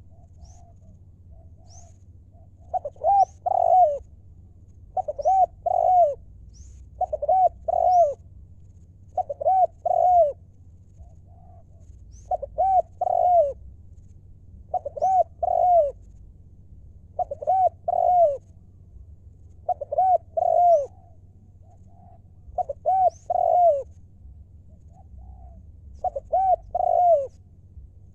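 Spotted dove cooing, repeating its short phrase of a few rolling notes about every two seconds. Faint high chirps from small birds come in between.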